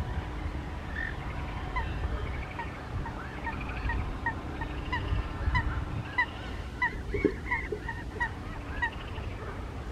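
A waterbird calling in a steady series of short, clipped notes, about two to three a second, starting about two seconds in, over a low rumble of wind on the microphone.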